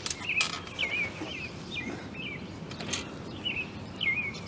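A bird chirping over and over, short wavering chirps about two to three a second, with a couple of sharp clicks among them.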